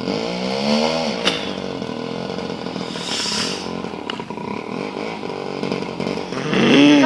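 Voskhod motorcycle's two-stroke single-cylinder engine running, its pitch rising in a short rev during the first second, then running steadily, with a sharp click shortly after the rev.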